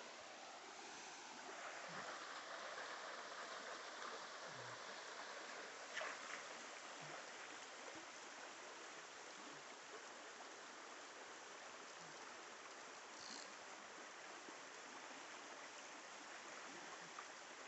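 Faint, steady rushing of a mountain creek, with a single sharp click about six seconds in.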